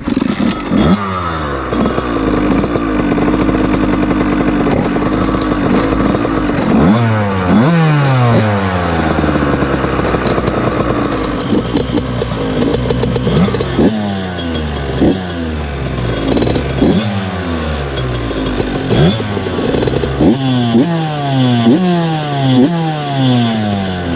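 Small two-stroke motocross bike engine, loud and close, held at a fairly steady speed for the first few seconds, then revving up and falling back over and over as the bike is ridden.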